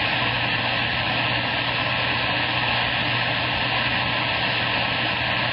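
CB radio receiver static on the 27 MHz band between transmissions: a steady rush of hiss with a faint low hum and faint steady whistles through it.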